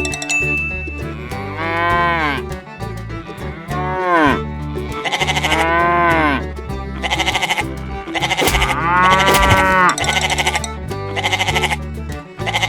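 Sheep bleating four times, each bleat a wavering call that rises and falls in pitch, over background music with a steady beat.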